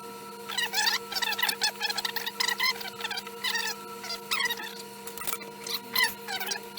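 Sped-up, high-pitched chattering speech over the steady hum of an SMD rework station's hot-air fan running at full speed.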